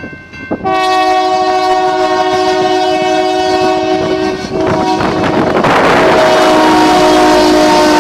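Union Pacific diesel locomotive's multi-chime air horn blowing long, broken briefly about half a second in. About four and a half seconds in, the chord drops in pitch as the locomotive goes by, and the noise of the train running on the rails swells under the horn.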